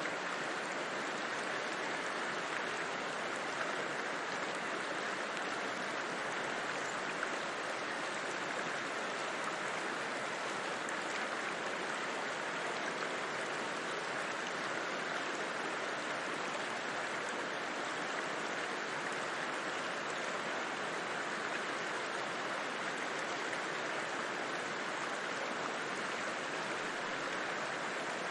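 River water rushing in a steady, even wash of noise with no breaks or separate splashes.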